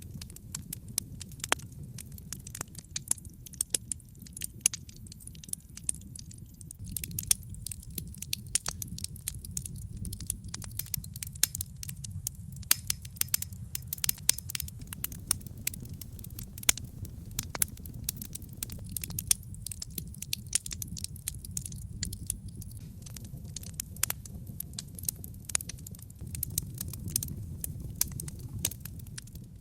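Wood logs burning in a brick fireplace: a steady stream of sharp crackles and pops over a low, even rumble of the flames. The crackling grows denser about a quarter of the way through.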